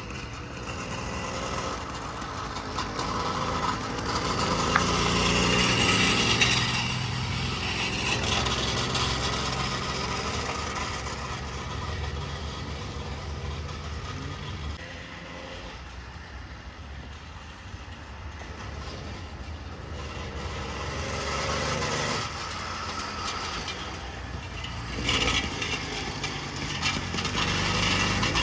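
An engine running, its speed and loudness rising and falling several times.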